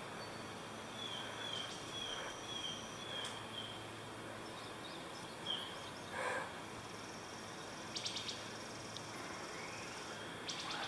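Woodland ambience: a bird repeats a short, high falling chirp about six times in quick succession over a steady high insect drone. There is a brief rustle a little past the middle and a few quick clicks later on.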